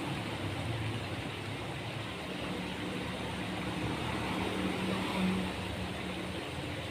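Steady low hum of motor-vehicle engines, like traffic going by. It swells briefly about five seconds in.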